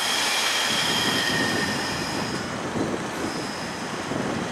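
Hanshin 5001-series 'Jet Car' commuter train standing at the platform just before it pulls away. High steady whining tones sound for the first two and a half seconds, then fade, with a shorter high tone again near the end.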